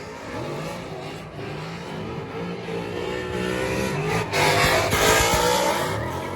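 A drift car's engine revving hard, its pitch climbing and dropping, with the loudest, noisiest stretch a little past halfway through.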